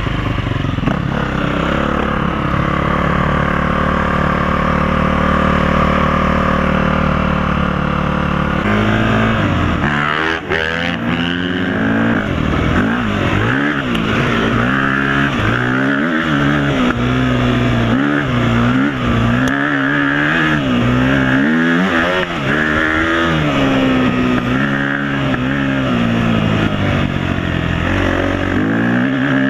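Dirt bike engine running loudly. It holds a steady pitch for the first several seconds, then revs up and down repeatedly as the throttle is worked over rough trail.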